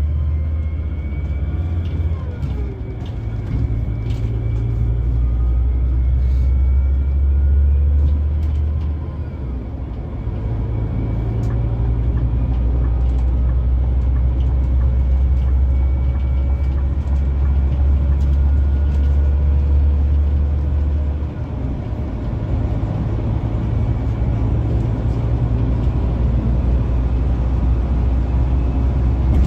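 Scania K360 coach's diesel engine running under way, a deep drone that drops and changes pitch about ten seconds in and again about twenty seconds in, as revs or gears change.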